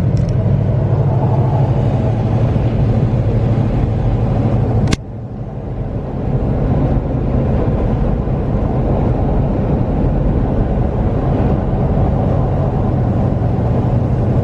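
Steady road and engine drone inside a moving pickup truck's cab. About five seconds in there is a sharp click, after which the drone dips and builds back up over about a second.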